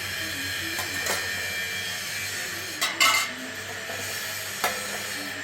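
Hard objects clinking and knocking a few times over a steady hum, the loudest knock about three seconds in.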